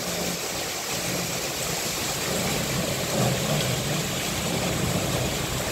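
Heavy rain pouring onto a paved courtyard in strong wind, a steady rushing hiss.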